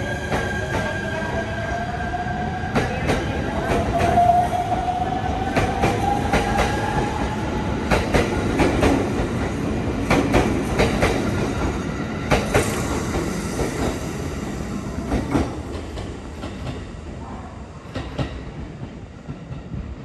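Electric train pulling away: its motor whine climbs steadily in pitch over about eight seconds while the wheels clack over rail joints. The sound then fades as the train leaves.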